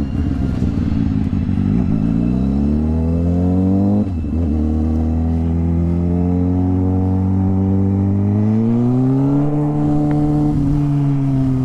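Motorcycle engine pulling away, its note rising, then dropping for a moment about four seconds in at a gear change. It runs steady, rises again near the end, then holds.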